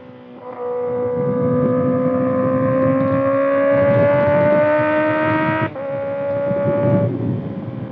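2025 Kawasaki ZX-6R inline-four running through a Voodoo Racing slip-on exhaust, accelerating under throttle. The engine note comes in loud about half a second in and rises steadily in pitch for about five seconds, then cuts and drops at an upshift, holds, and eases off near the end.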